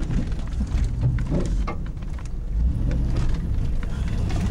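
GMC Jimmy's engine running at low speed off-road, a steady low rumble, with scattered clicks and knocks from the truck working over rough ground.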